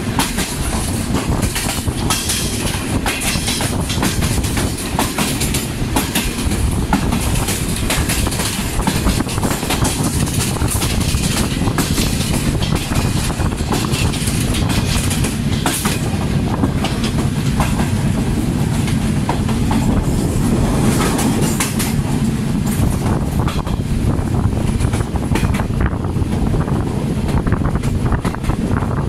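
Passenger train running, heard from an open coach doorway: a steady rumble from the coaches, with the wheels clicking over rail joints throughout.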